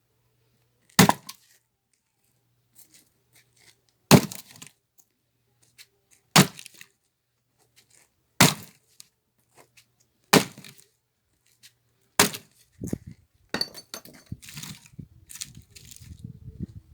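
Axe striking firewood, six hard blows about two seconds apart, splitting the log. Softer, irregular knocking and rustling follow near the end.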